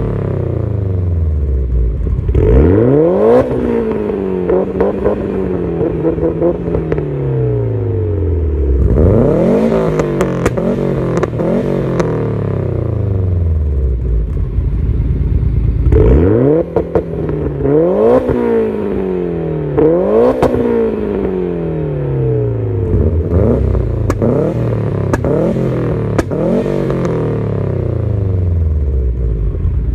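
Turbocharged four-cylinder car engine being revved hard from idle again and again. Each rev climbs quickly and then falls back to idle, with sharp crackles from the exhaust on the revs.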